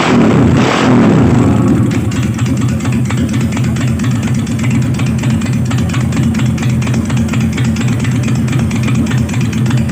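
Steed 650 motorcycle's V-twin engine revved twice near the start, then settling back to a steady idle with an even pulse.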